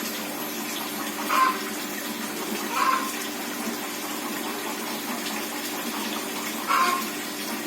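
Steady splashing of water running into a pond. Over it a chicken clucks three times: about a second and a half in, about three seconds in, and near the end.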